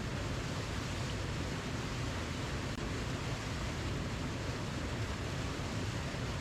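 Steady rushing of a waterfall, an even wash of water noise that is heaviest in the low end and never changes.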